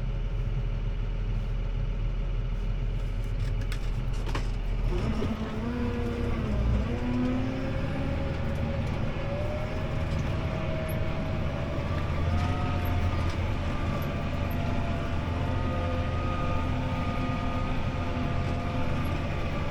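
CLAAS ARION 650 tractor's six-cylinder diesel engine heard from inside the cab, running steadily, then rising in pitch about five seconds in as it revs up, and holding at the higher speed with a steady whine over the drone.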